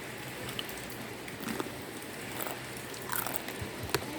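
Eating sounds close to the microphone: a few soft chewing and mouth clicks, more of them near the end, over a steady low background hum.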